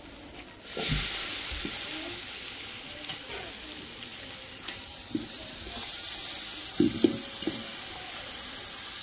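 Chopped tomatoes tipped into hot oil and paste in a cooking pot set off a sudden loud sizzle about a second in, which slowly dies down. A few knocks follow as the pot is stirred.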